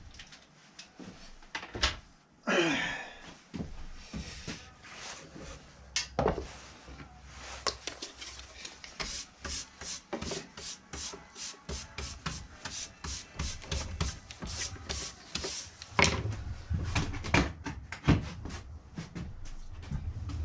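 Rapid rubbing and scraping strokes, a quick run of them in the middle, with a few sharper knocks near the end.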